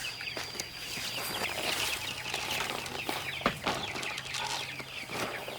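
A flock of young native chicks peeping together, a dense chatter of short high cheeps, with one sharp knock a little past the middle.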